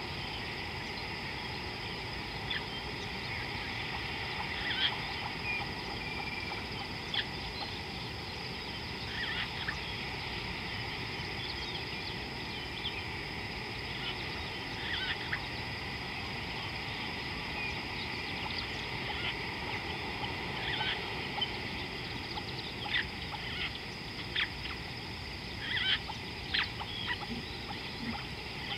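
Scattered short bird calls and chirps, a few louder ones near the end, over a steady background hiss and a constant high hum.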